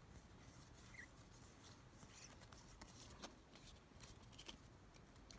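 Near silence, with faint rustling and a scatter of light clicks from collectible photo cards being handled and laid out.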